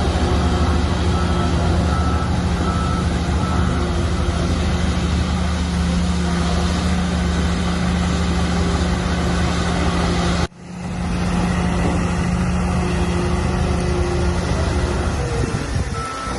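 Large crawler bulldozer's diesel engine running steadily under load, with a faint repeating beep in the first few seconds. The sound cuts out abruptly about ten seconds in and comes back.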